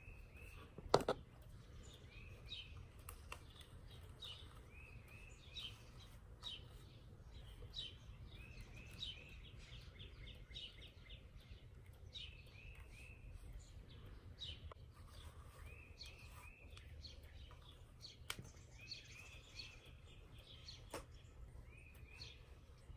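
Faint bird chirps repeating throughout, each a short call dropping in pitch, over a low steady hum. A sharp click about a second in is the loudest sound, with a few fainter clicks later.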